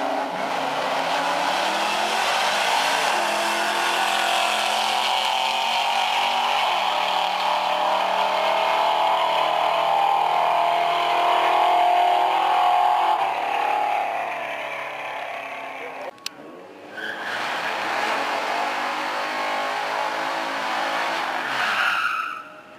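A classic Ford Mustang drag car launching off the line and running hard at full throttle down the strip, its engine note rising and falling through the gears. After an abrupt cut about sixteen seconds in, a pickup truck's engine revs hard with tyre squeal, as in a burnout.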